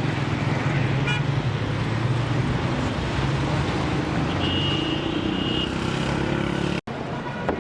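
Road traffic: vehicle engines running with a steady low hum, and a brief high horn toot a little past halfway. The sound cuts off abruptly near the end.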